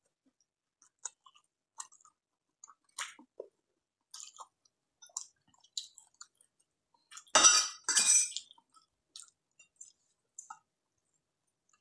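A person chewing a mouthful of fried instant noodles close to the microphone: scattered small wet smacks and clicks, with two louder, longer rushes of noise a little past halfway.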